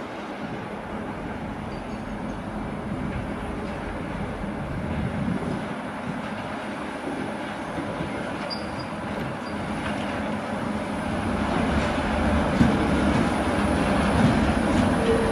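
Freight train of double-deck car-carrier wagons hauled by a diesel shunting locomotive, rolling slowly through a rail yard: a steady rumble of wheels on rails with clicking over the joints, growing louder as the wagons pass nearer, and a brief squeal near the end.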